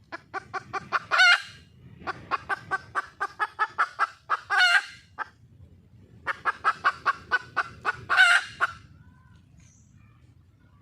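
Junglefowl hen cackling in three bouts. Each bout is a quick run of short clucks that ends in one louder, drawn-out squawk.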